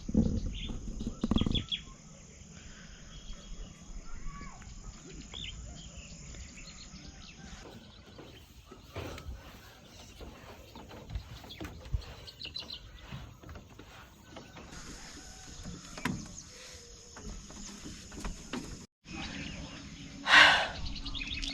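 Small birds chirping over a steady high hiss of outdoor ambience, with one brief, louder sound near the end.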